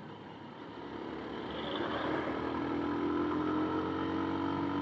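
Lifan KPR 200 motorcycle's fuel-injected 198 cc single-cylinder engine under way at speed. It grows louder over the first two seconds, then pulls steadily with revs slowly climbing.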